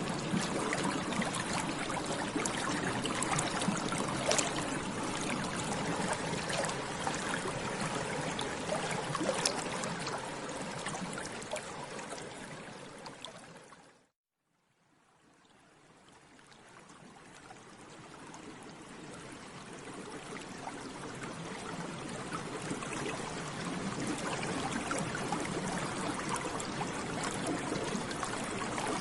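Water bubbling steadily, full of small pops and gurgles. About twelve seconds in it fades out to a moment of silence, then fades back in over the next several seconds.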